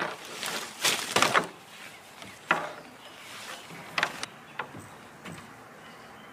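A series of short scraping and knocking handling noises: a cluster in the first second and a half, then a few single sharp knocks spaced about a second or more apart.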